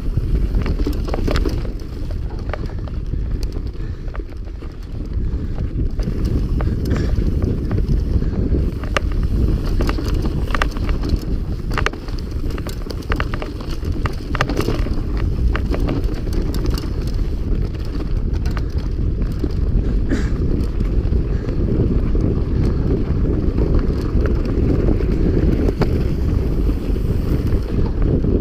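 Mountain bike being ridden fast, with wind buffeting the microphone as a steady low rumble and frequent sharp rattles and knocks from the bike over the ground.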